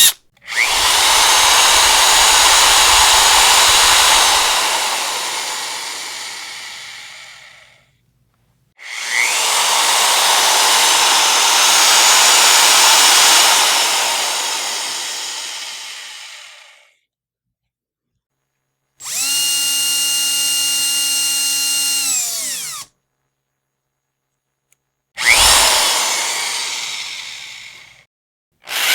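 Electric power drill running in separate bursts with dead silence between them. Two long bursts of drilling each die away gradually over several seconds. Then comes a steady, level whine of about four seconds that winds down at the end, then a shorter burst.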